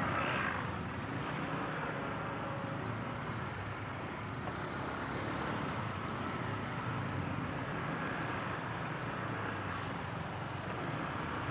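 Honda Click 125i scooter's single-cylinder engine running steadily while riding through city traffic, with surrounding traffic noise.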